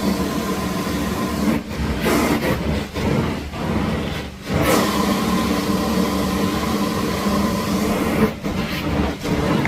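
Hot-water carpet extraction machine running with a steady, loud drone, its sound dipping briefly several times as the cleaning wand is worked across the carpet.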